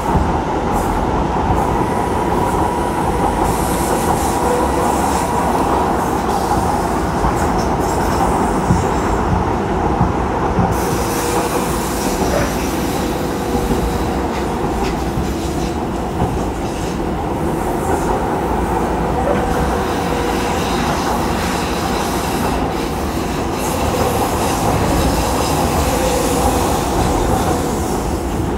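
Docklands Light Railway train running, heard from inside the carriage: a steady rumble of wheels on the rails with a faint whine underneath and a few clicks.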